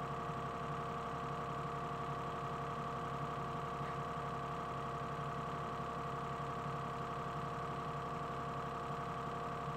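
Excavator engine running steadily at idle, an even hum with a steady whine over it and no change in pitch.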